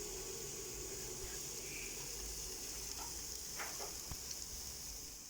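Whole marinated chicken sizzling on a charcoal barbecue grill, a steady soft hiss, with a few faint brief clicks about three and a half to four seconds in.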